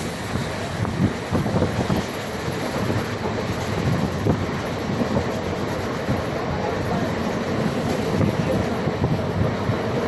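Indian Railways train running steadily on the rails: continuous rumble of the wheels and carriages, with no change in pace.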